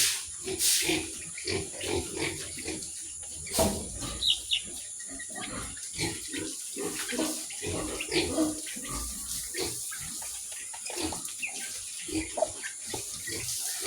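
Pigs grunting in a rapid, continuous string of short grunts.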